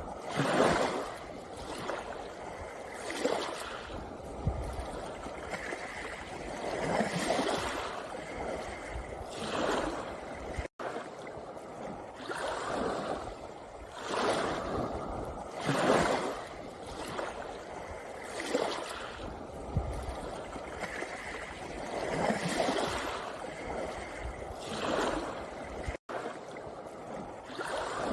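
Small sea waves breaking and washing onto a pebble beach, one surge every two or three seconds. The sound cuts out for an instant twice.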